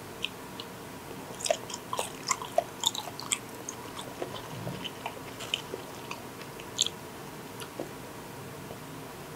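Close-up chewing of raw shark sashimi: a run of small sharp clicks that starts about a second and a half in, thickest over the next two seconds, then thins out and stops about two seconds before the end.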